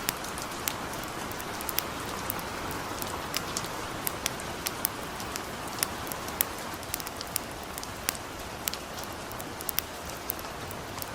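Steady hiss of light rain with a campfire crackling over it: irregular sharp pops and snaps, several a second.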